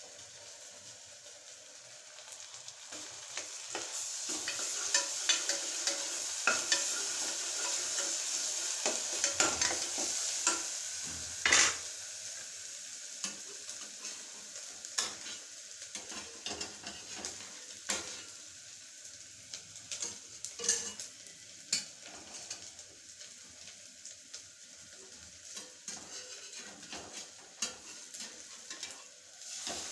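Food frying and sizzling in a pan, loudest from about 3 to 11 seconds in. After that it goes quieter, with scattered sharp taps and scrapes of a spatula against the pan.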